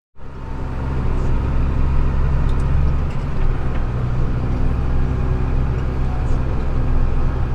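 Tractor engine running steadily under a constant load, a deep even drone.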